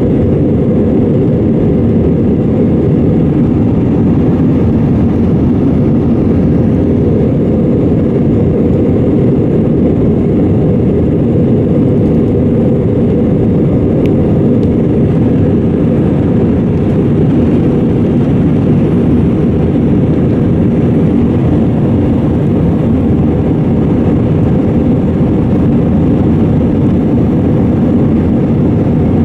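Airbus A320 cabin noise: a steady, loud rumble of jet engines and airflow heard from inside the cabin, even in level throughout.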